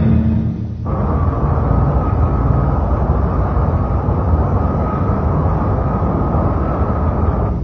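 Cartoon sound effect of a space fleet's engines: a steady rumble that starts about a second in, as the music cuts off, and holds until near the end.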